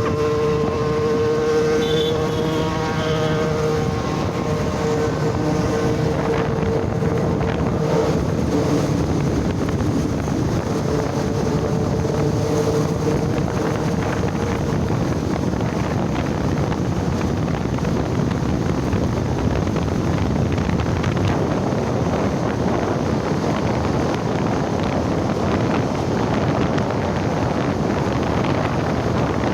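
Motorcycle on the move: steady engine noise under heavy wind rush on the microphone, with a humming engine tone that is clear for the first several seconds and then fades into the noise.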